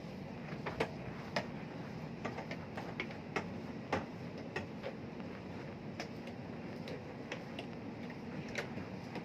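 Irregular sharp clicks and knocks, about a dozen scattered through, over a steady low machinery hum.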